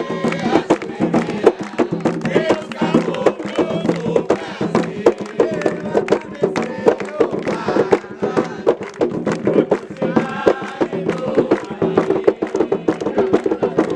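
Group singing of an Umbanda ponto (ritual chant) to hand drums beating a fast, steady rhythm.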